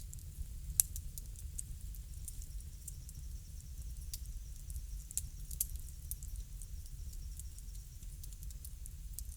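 Wood fire crackling: irregular small snaps and pops over a steady low rumble, with one loud sharp pop about a second in.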